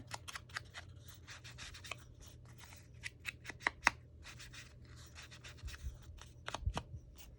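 Paper crafting at a desk: paper rustling and rubbing with scattered light clicks and taps of paper and small tools, irregular throughout, over a low steady hum.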